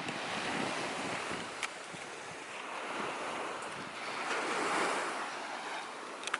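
Ocean surf washing in on a beach, rising and falling in two swells, with wind buffeting the microphone.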